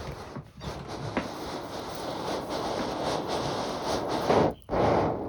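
Harsh, steady rasping of abrasive work on steel, breaking off briefly near the end and then resuming loudly.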